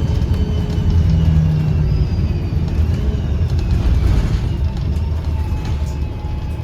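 Diesel engine and Voith automatic transmission of a 2009 Gillig BRT 40-foot bus heard from inside: a heavy, throaty low rumble with faint high whistling tones above it that slowly fall in pitch.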